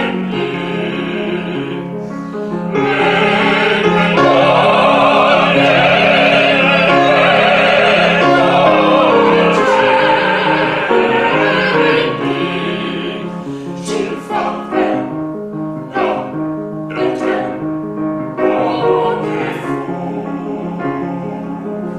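Music: classical-style singing with vibrato over accompaniment, swelling into a loud held passage in the middle and then growing softer.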